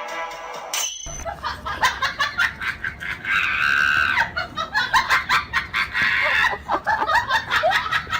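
Music cuts off about a second in, followed by a rapid run of high-pitched shrieking cries and squeals in short, broken bursts, with one longer held shriek near the middle.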